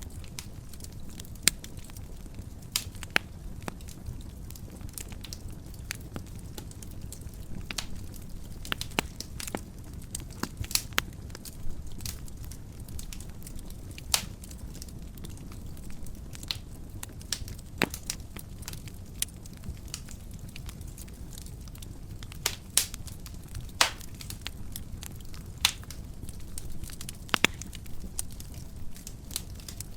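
Wood fire in a fireplace crackling, with a steady low rumble of the burning and frequent irregular snaps and pops, a few of them much sharper than the rest.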